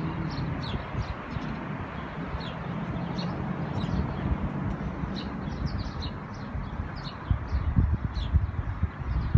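Small birds chirping in short, high notes every second or so, over a low rumble of wind on the microphone.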